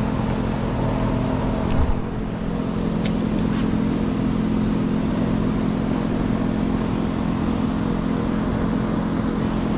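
Engine running steadily at a constant speed, with a few light clicks about two seconds in and again a little later.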